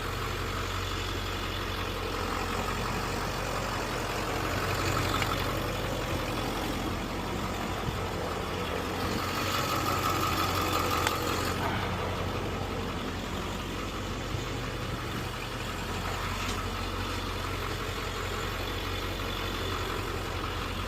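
Truck engine running at low speed, a steady low hum, with a short swell of louder noise about nine to eleven seconds in.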